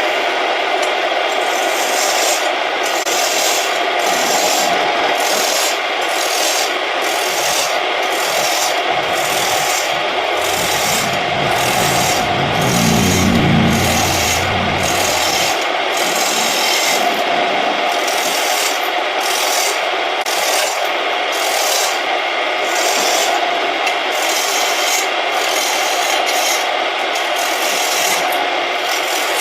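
A tool scraping against a surian wood blank spinning on a homemade wood lathe: a steady rasping rush whose hiss pulses at a regular rate, somewhat under twice a second. A low rumble joins in briefly around the middle.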